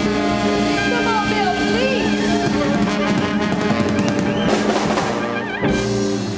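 Live small swing band with tenor saxophone, guitar, upright bass and drum kit playing the closing bars of a song, with busy drum fills under held notes. It ends on a sharp accented hit and a held final chord near the end.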